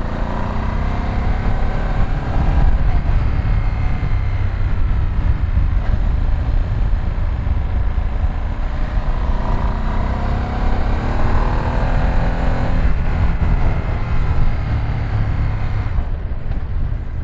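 Ducati Streetfighter V2 S L-twin engine running on the move, its pitch rising and falling with the throttle, under a heavy low rumble of wind.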